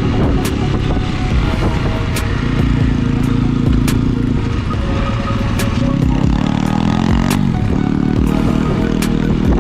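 Dirt bike engine running under load as it is ridden, its pitch rising and falling with the throttle. It climbs and then drops off sharply about three-quarters of the way through, with a few sharp clicks over it.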